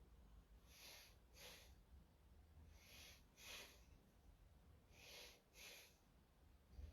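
Faint breathing of a person holding a hollow-hold core exercise: three breaths about two seconds apart, each a short pair of soft in-and-out puffs.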